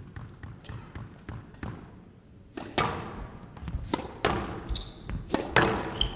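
Squash rally: after faint ticking at first, the ball cracks off rackets and walls about half a dozen times, with court shoes giving short high squeaks on the floor near the end.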